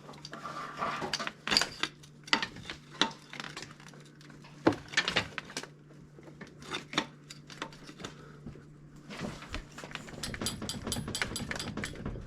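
Metal tools and parts clinking and knocking irregularly while work goes on in a car's engine bay, over a steady low hum. Near the end comes a quick, even run of light clicks.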